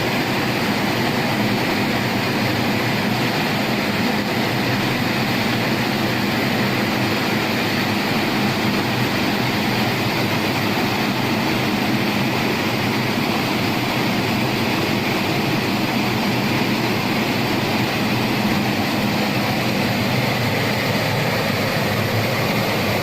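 Horizontal glass washing and drying machine running, a steady, even mechanical noise with a low hum underneath.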